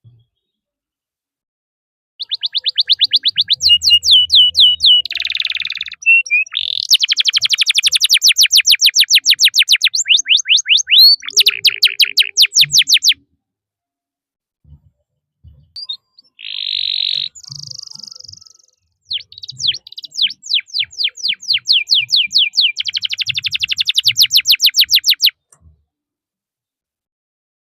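Domestic canary singing long rolling phrases of fast, evenly repeated high notes. The song breaks off for a few seconds midway, with a single short buzzy note, then resumes.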